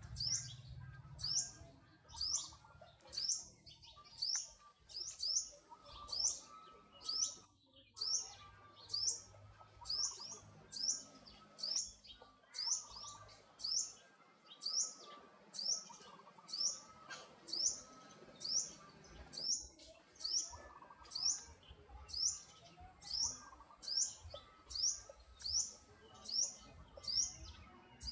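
A bird repeating one short, high, rising chirp about once a second.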